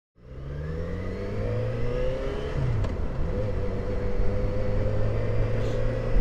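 Motorcycle engine accelerating with the pitch climbing, a gear change about two and a half seconds in, then running steadily at cruising speed, with low wind rumble on the microphone.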